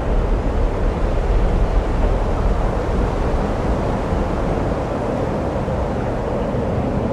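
Storm sound effect: a steady rushing noise over a deep, continuous rumble.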